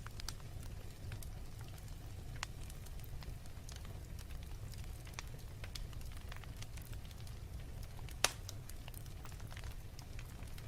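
Fire burning and crackling: scattered small pops and ticks over a steady low rumble, with one louder pop about eight seconds in.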